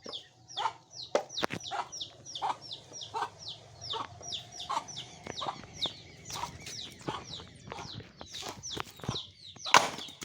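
Chickens clucking and peeping, a run of short high falling notes about three a second. A few sharp knocks, the loudest near the end.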